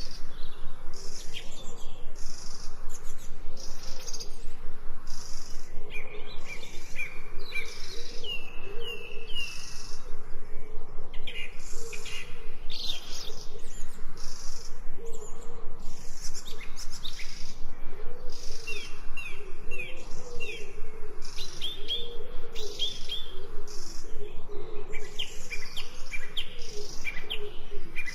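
Birds chirping and calling, several at once, with many short, quick sweeping chirps high up and a lower wavering call underneath.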